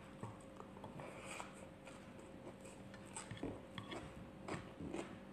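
A person chewing raw leafy greens: faint, irregular crisp crunching clicks over a steady low hum.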